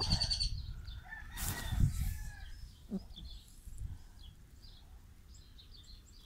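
Birds chirping in the background. There is a quick run of high chirps at the start and scattered faint chirps later on, with a short rustle about a second and a half in.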